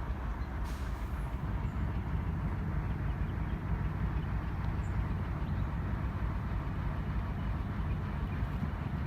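Alco S-6 diesel switcher locomotive running steadily, heavy and low-pitched.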